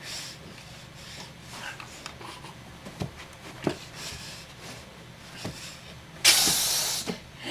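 Rustling and rubbing as a costume shell is pulled off, with a few light knocks, then a loud rushing hiss lasting about a second near the end.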